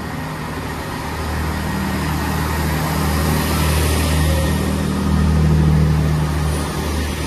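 Passenger train moving past close alongside the platform: a steady low engine-like drone over running noise, building to its loudest around five to six seconds in, then easing slightly.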